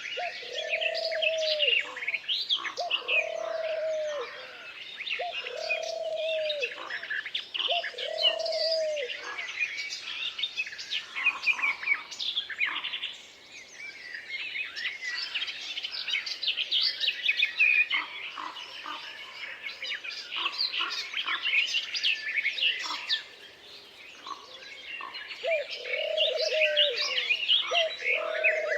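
Forest songbirds chirping and trilling over one another. A lower, slightly arched call repeats about every two seconds, four times near the start and again near the end.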